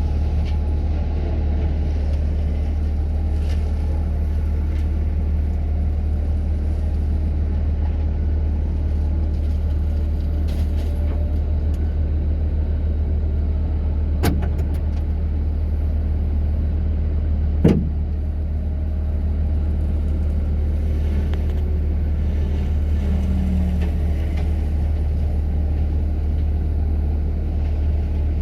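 Kubota skid steer's diesel engine running steadily under a heavy low drone. Two sharp cracks cut through it, one about halfway and a louder one a few seconds later.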